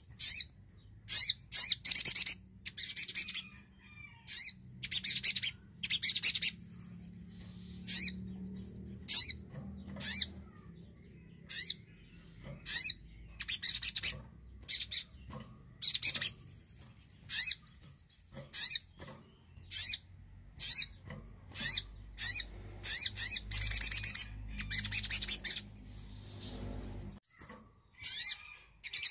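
Spiderhunter (sogok ontong) singing: a fast run of sharp, high, piercing calls and short rapid trills about a second long, repeated over and over with brief gaps.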